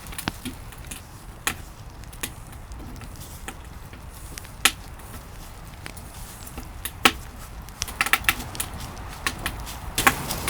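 Scattered knocks and clicks of food preparation: a knife and utensils meeting a cutting board at an irregular pace, busiest near the end, over a low steady rumble.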